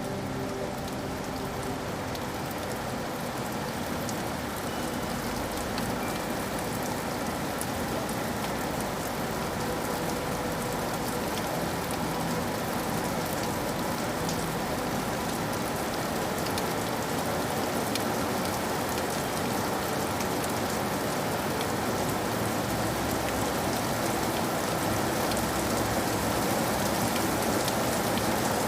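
Steady rain falling, a dense patter of drops that grows slowly louder.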